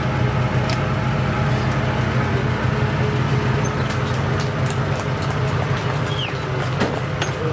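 Off-road vehicle engine idling steadily, with an even low hum.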